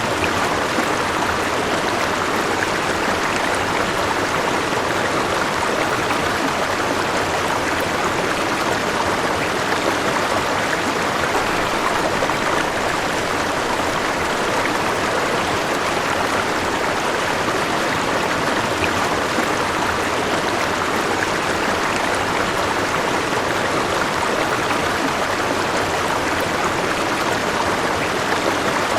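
River water flowing steadily over rocks, a continuous even rushing.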